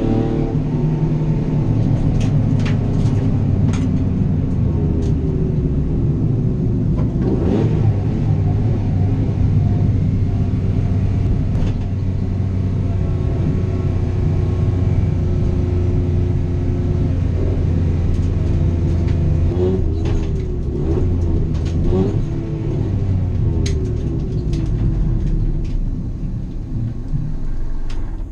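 Small-engined race car heard from inside the cabin, its engine revving up and down through the gears at racing pace, with occasional sharp clicks and knocks. The engine eases off and gets quieter in the last couple of seconds.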